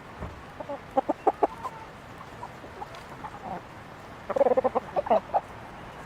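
Chickens clucking: a few short clucks about a second in, then a quicker run of clucks around four to five seconds in.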